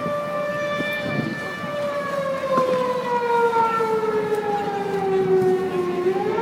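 Air-raid siren wailing on a steady pitch, then slowly falling in pitch for about four seconds before rising again near the end.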